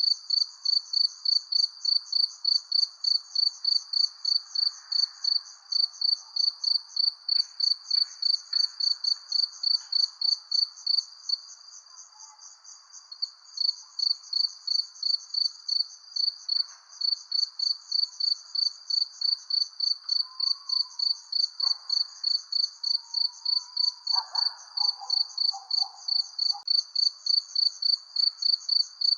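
Crickets chirping at night in a steady, even rhythm of about two to three chirps a second. Around twelve seconds in, the chirping runs together into a brief continuous trill before the beat resumes. Under it is a faint background hum of other night insects.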